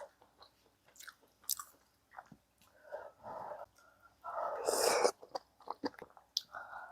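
A person eating spicy catfish stew up close: small chewing and mouth clicks, with one loud breathy exhale or slurp about four seconds in.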